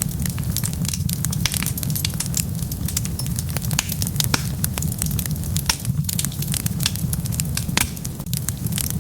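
Wood fire burning with a steady low rumble and dense, irregular crackles and pops, a few sharper pops standing out.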